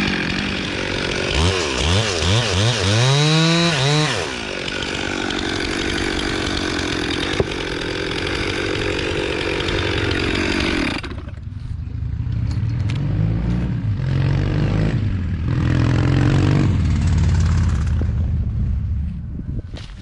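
Chainsaw running hard, revved up and down several times in quick succession in the first few seconds, then held at high speed. It stops suddenly about eleven seconds in, leaving a lower-pitched engine that rises and falls a few times.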